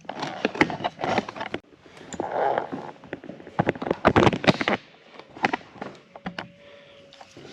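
Irregular clicks, knocks and rattles of parts being handled and worked into place by hand while fitting a tractor's air cleaner assembly, busiest around the middle.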